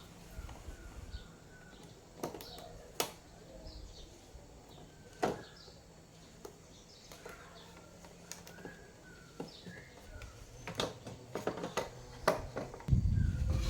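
Small birds chirping in the background, with several sharp clicks and knocks. Near the end a louder low rumbling noise sets in.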